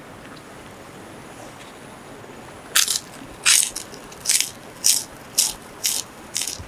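Crunchy food being chewed close to the microphone: seven loud crisp crunches, about two a second, starting about three seconds in.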